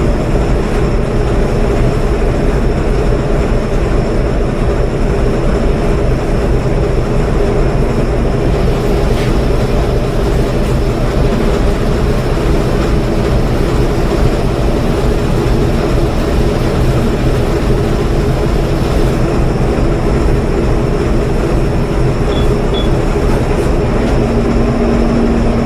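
Loud, steady drone of a ship's diesel machinery running without a break. A further steady hum joins it near the end.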